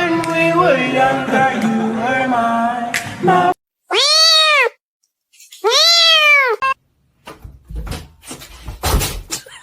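A cat giving two drawn-out meows about a second apart, each rising then falling in pitch. Before them is a pitched voice stepping between notes, and near the end come scattered soft knocks.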